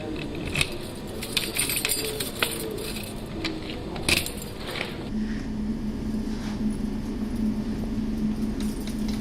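Light metallic clinking and rattling, like keys or small metal objects being handled, for about five seconds; then a steady low hum sets in.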